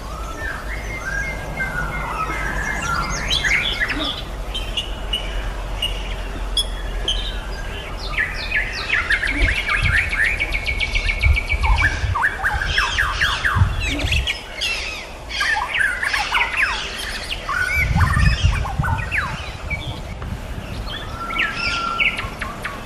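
A white-rumped shama and a sikatan londo flycatcher singing together: a dense, varied run of whistles, fast trills and chirps, with a few low bumps along the way.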